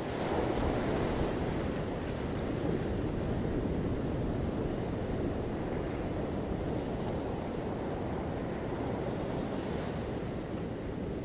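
Ocean surf: a steady wash of waves on a beach, swelling just after the start and slowly easing off.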